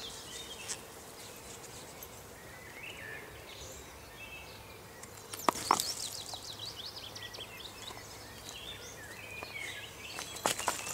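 Songbirds singing in the background, with a quick trill about six seconds in. A few short sharp knocks, the loudest about five and a half seconds in and again near the end.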